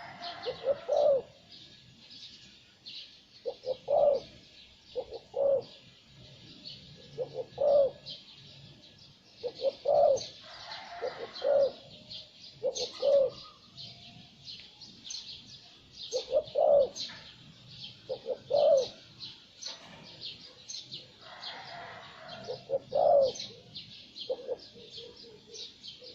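Zebra dove cooing its call: short phrases of quick, clipped coos, repeated every couple of seconds, with constant high-pitched twittering of small birds behind.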